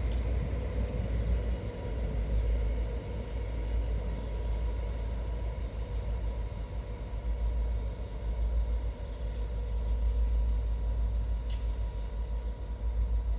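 Steady low vehicle rumble with a faint steady whine, and a single sharp click about eleven and a half seconds in.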